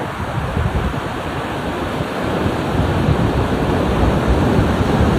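Ocean surf: a steady rush of waves that swells a little louder about halfway through.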